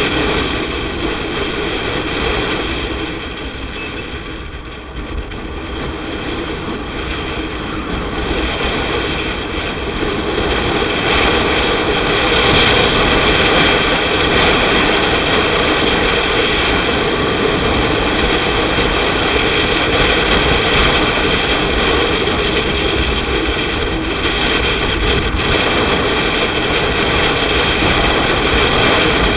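Motorcycle riding on the road: a steady rush of wind over the microphone mixed with engine and road noise. It eases off around four seconds in and builds again from about ten seconds, then holds steady.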